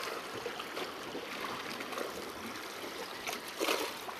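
Seawater washing and trickling over rocks, with a few short, sharper sounds about three and a half seconds in.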